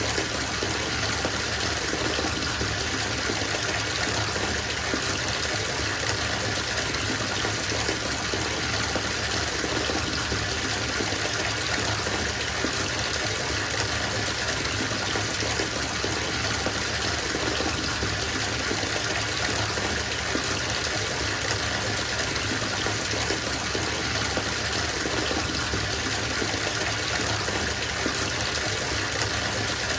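Water running from a faucet into a bathtub, a steady unbroken gush.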